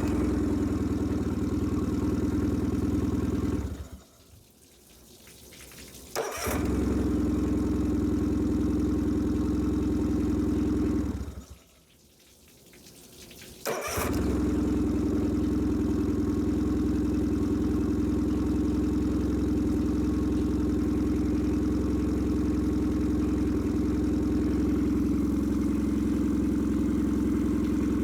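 2006 Nissan 15 hp four-stroke outboard idling, then shut off and restarted twice: it stops about four seconds in and catches again about two seconds later, stops again near the middle and catches again, then idles steadily. This is a warm-restart check, and the motor starts readily each time.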